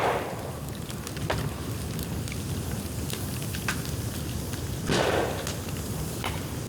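Dry bamboo burning in an open bonfire: a steady low rumble of flame with scattered sharp crackles and pops. There are two louder, brief rushing flares, one at the start and one about five seconds in.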